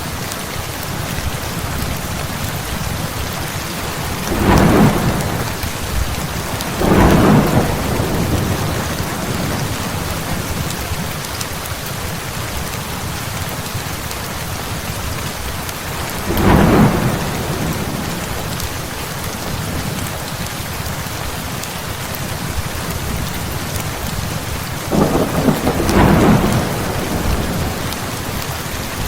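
Heavy rain falling steadily, with thunder cracking and rumbling four times: twice early on, once midway and once near the end.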